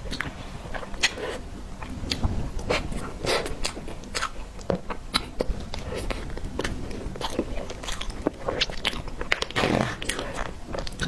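Close-up mouth sounds of someone biting and chewing tiger skin roll, a soft rolled sponge cake: irregular small clicks and smacks, with a denser stretch of chewing near the end.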